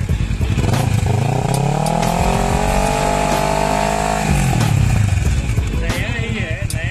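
Kawasaki Ninja 650 parallel-twin engine with an Akrapovic exhaust, blipped from idle. The note rises about a second in, holds high for a couple of seconds, then drops back to a lumpy idle.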